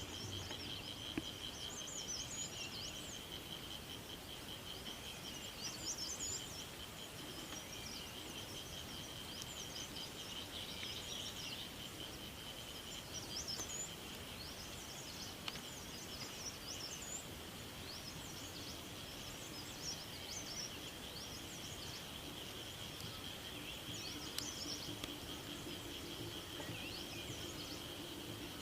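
Evening forest ambience: a steady, fast-pulsing insect trill, with songbirds chirping in many short high calls over it.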